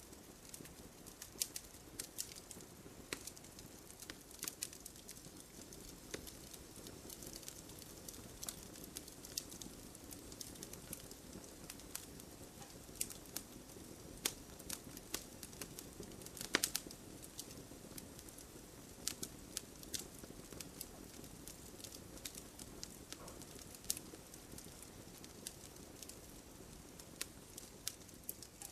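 Wood campfire crackling: irregular sharp pops and snaps over a soft steady hiss of the burning fire, with one louder pop about two-thirds of the way through.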